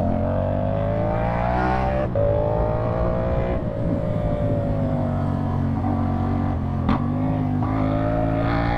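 CFMoto 450SR's parallel-twin engine through a slip-on exhaust, accelerating. The revs climb, drop abruptly at an upshift about two seconds in, climb again, then fall away for a couple of seconds. They build once more, with a sharp crack about seven seconds in.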